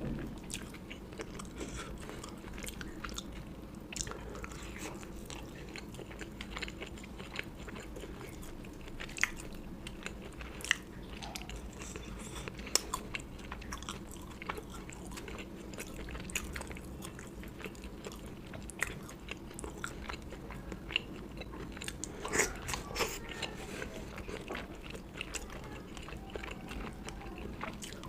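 A person eating close to the microphone: chewing and biting, with frequent short, sharp clicks and crunches scattered irregularly over a faint steady low hum.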